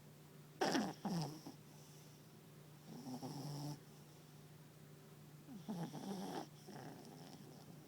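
Small papillon dog snoring in her sleep. Two sharp snorts with a falling pitch come about half a second in and are the loudest; longer, breathier snores follow around three seconds and again around six seconds.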